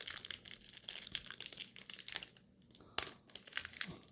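Foil wrapper of a trading-card pack crinkling and tearing as it is worked open by hand, with a sharp crackle about three seconds in.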